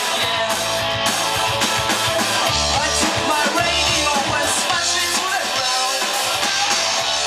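Punk rock band playing live: distorted electric guitars, bass and drum kit, with a vocal line over them.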